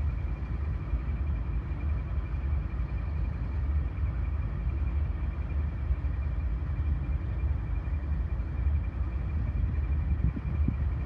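Steady low rumble of a diesel freight train, with a faint steady high whine above it.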